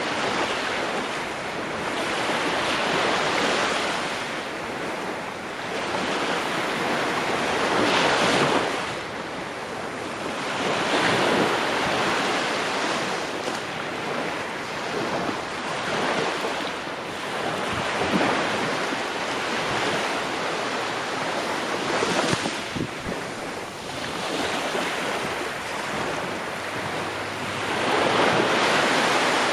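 Ocean waves breaking and washing on a shore, surging and receding every few seconds, with a stronger surge near the end.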